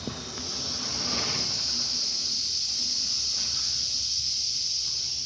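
Steady air hiss from a light leak at the bottom of a lorry's vacuum kit. The hiss swells about half a second in. The leak is small, and the owner says the vacuum is not dropping from it.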